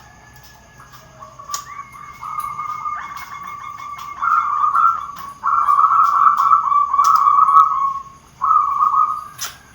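Perkutut (zebra dove) cooing: a run of pitched, trilled coo phrases, each about half a second to a second long. They start faint about a second in and get louder from about four seconds, with a sharp click near the end.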